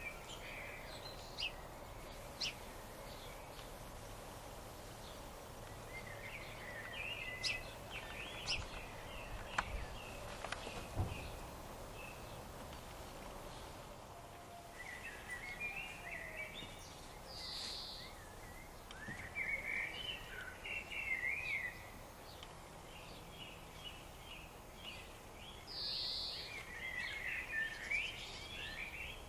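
Birds chirping and twittering in several bursts over a steady outdoor background, with a few sharp clicks and two short hisses.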